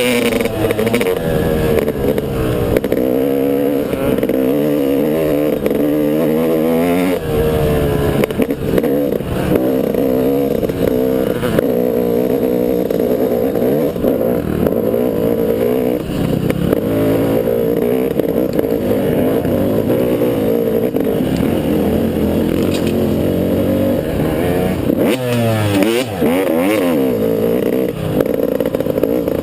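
Motocross dirt bike engine running hard while being ridden, its pitch repeatedly rising and falling with the throttle.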